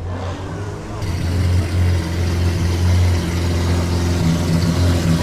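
A car's engine running at a steady idle, a deep, loud hum that comes in about a second in and holds steady.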